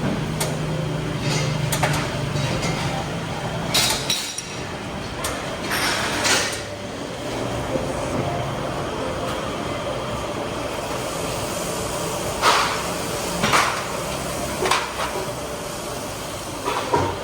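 Scattered metallic clinks and knocks, about nine spread over the stretch, of tools or metal parts being handled, over a steady background noise.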